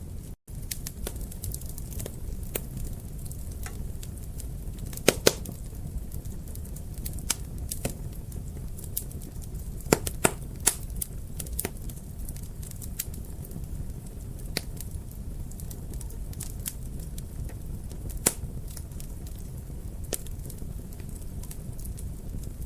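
Wood fire crackling in a fireplace: a steady low rumble of flames with irregular small snaps, and a few sharp louder pops, a close pair about five seconds in and several more around ten seconds and near eighteen seconds.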